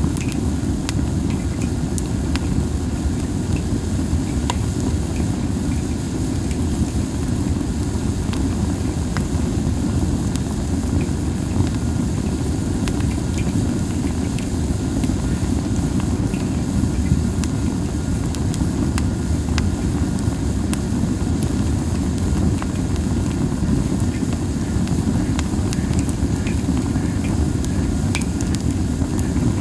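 Wood fire of Japanese spindle (masaki) branches burning, with scattered sharp crackles and pops over a steady low rumble.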